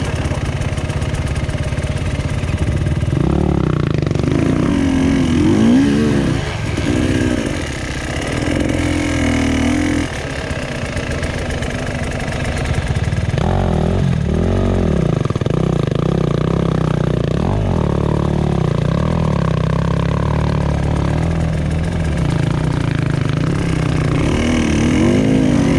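Enduro dirt bike engine running and revving, its pitch rising and falling again and again in repeated swells.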